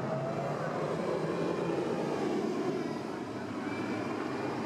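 1938 Zündapp motorcycle engine running with a steady rumbling drone that swells and then eases off about three seconds in.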